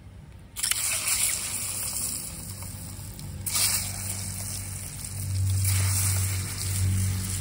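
Peeled boiled eggs sizzling as they are dropped into hot spiced oil in a small aluminium karahi. The sizzle starts suddenly about half a second in and surges again twice as more eggs go in. A low hum sits underneath in the second half.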